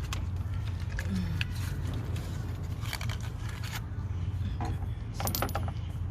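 Light metallic clinks and scrapes of small metal parts and tools being handled, with a small cluster of clinks about five seconds in, over a steady low hum.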